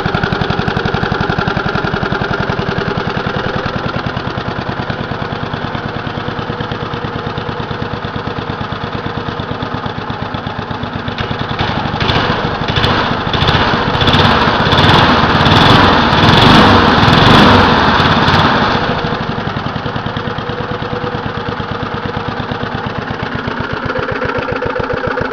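1987 Briggs & Stratton 4-horsepower single-cylinder lawn mower engine running steadily, freshly cold-started. About halfway through it revs up for roughly six seconds, then drops back to its steady running speed.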